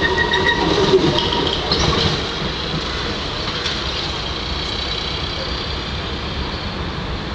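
UV-type tram running on the track: its wheels squeal with high tones over a rumble in the first two seconds, then the sound settles into a steadier, slightly quieter rail noise.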